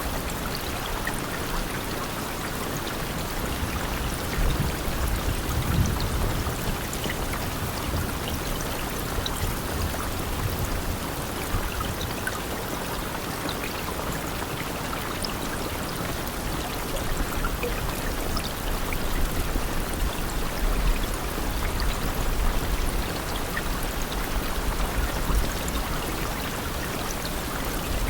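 Steady rain falling, an even hiss with scattered drop patters and a low rumble that swells now and then.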